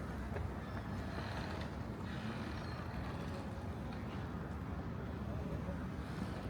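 Street traffic: a steady rumble of motor vehicles on the road.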